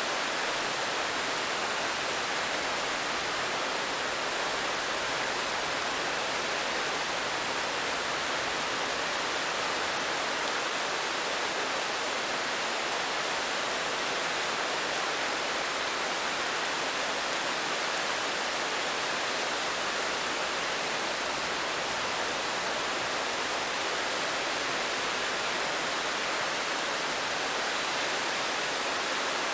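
Steady rain: an even, unbroken hiss with no single drops, thunder or other sounds standing out.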